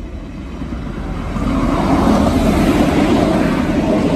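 Northern Ireland Railways CAF diesel multiple unit passing through a station at speed: the rumble of wheels on rail, engine and rushing air grows louder over the first two seconds, then holds loud as the carriages go by close at hand.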